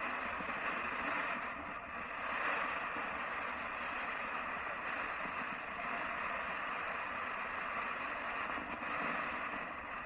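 Hex-box ghost box sweeping through radio frequencies, giving out a steady hiss of static from its small speaker.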